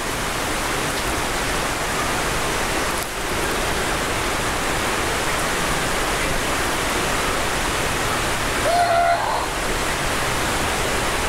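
Stream water rushing steadily over rocks, an even hiss that holds at the same level throughout. About nine seconds in there is a brief short gliding tone.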